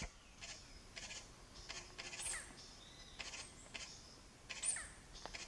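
Birds calling in a series of short, high-pitched calls, about eight in all. Two of the calls open with a sharp note that slides down in pitch.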